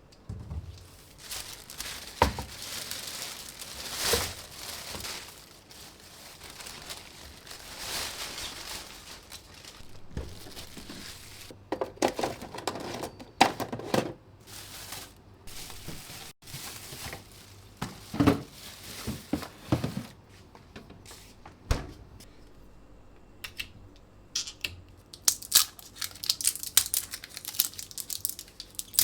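Crinkling and rustling of something being handled, with scattered clicks and light knocks that come thick and fast in the last few seconds.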